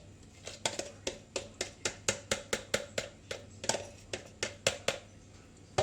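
A utensil clinking quickly and evenly against a bowl, about four or five clicks a second, as the piri piri marinade gets a final stir before it is poured over the chicken.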